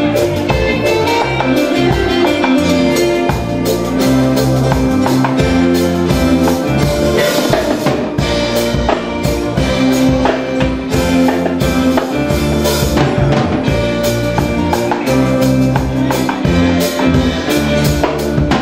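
Live fusion band playing an instrumental passage on drum kit with steady pitched bass and keyboard-like lines, without vocals.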